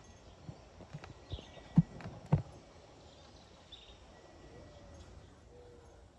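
A few irregular, dull knocks in the first half, the loudest two close together, then a quieter stretch with faint high chirps.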